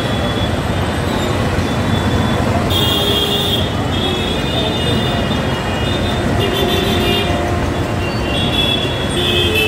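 Mumbai suburban local (EMU) train running, heard from inside the coach: a steady rumble and rattle with a high-pitched whine that comes and goes.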